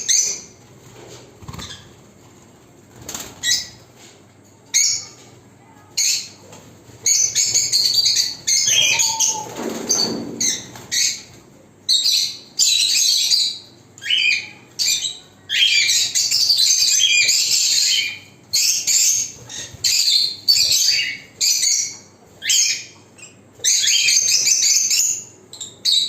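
Lovebirds chattering in repeated shrill, high-pitched bursts, some short and some lasting a second or two.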